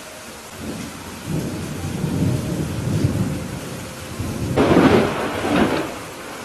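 A thunderstorm: steady rain with thunder. A low rumble builds about a second in, then two sharper, louder claps of thunder come a little past halfway, one close after the other, before the rumble fades near the end.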